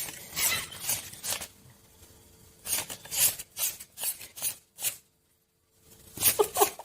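An irregular series of short rustling scrapes, about a dozen in a few seconds, over a faint steady hum; near the end comes a brief sound with some pitch.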